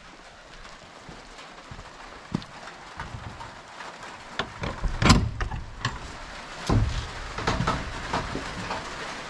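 Steady rain falling, with a run of irregular knocks and bumps; the loudest come about five and seven seconds in.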